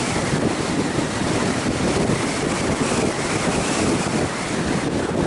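Strong wind buffeting the microphone: a loud, uneven rush of noise.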